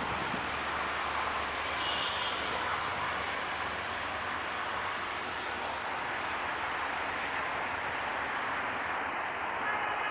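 Steady, even running noise of diesel trains: a passenger train rolling away along the track beside a standing diesel locomotive.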